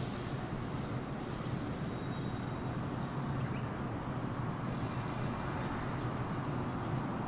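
Steady low rumble of a train, with faint, short, high-pitched notes now and then.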